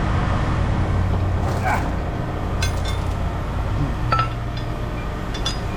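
Several light, sharp metallic clinks scattered over a few seconds, over a steady low hum.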